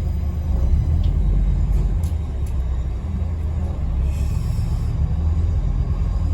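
Scania N270UD bus's diesel engine and running gear heard from inside the cabin while under way: a steady low rumble, with a few faint clicks and rattles and a brief hiss about four seconds in.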